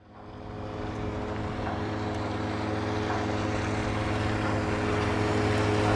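Outboard motor on a small inflatable boat running at a steady speed, fading in from silence over the first second.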